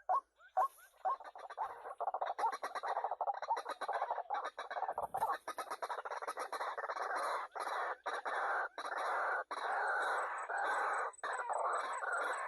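White-breasted waterhen calls: a few short rising notes, then a dense, harsh, continuous chorus of repeated croaking calls with only brief gaps.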